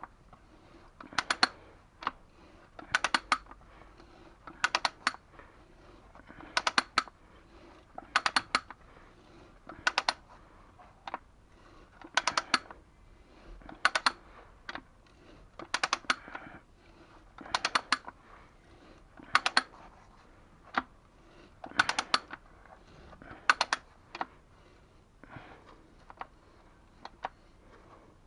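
Short runs of sharp clicks, three or four quick clicks at a time, repeating about every second and three-quarters in a steady rhythm.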